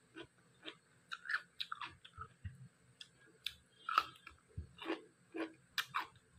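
A person chewing food, at about two chews a second, with a louder bite about four seconds in.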